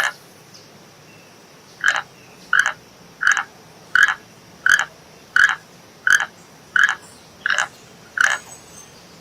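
An animal giving short, evenly spaced calls, about three every two seconds, after an opening pause of nearly two seconds.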